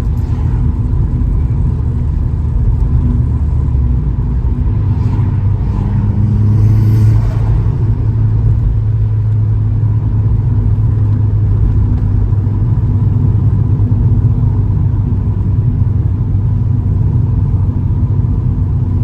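Turbocharged Vauxhall Astra GSi engine droning with road noise inside the cabin while driving, with a brief rise in revs about six seconds in before settling back to a steady cruise.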